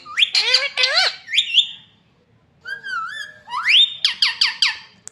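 Parrot calling: a quick run of high, arching whistled calls and squawks, a short pause about two seconds in, then a long rising whistle followed by another fast series of calls.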